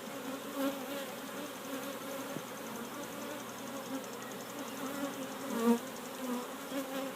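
Honeybee colony buzzing around an opened hive: a steady hum of many bees, with single bees flying close past now and then, the nearest about three-quarters of the way through.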